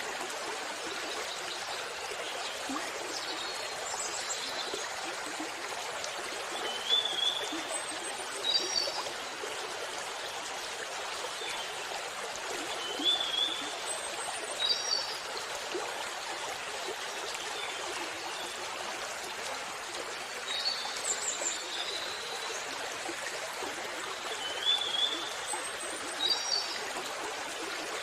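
Waterfall water rushing in a steady, even hiss. Short high chirps come in small clusters every few seconds above it.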